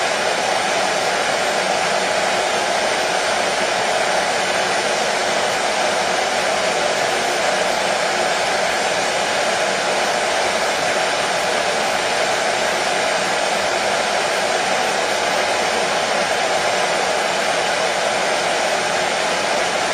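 Hair dryer running continuously at a constant speed: a steady, even rush of blower noise with no change in pitch or level, used as white noise to soothe a colicky baby to sleep.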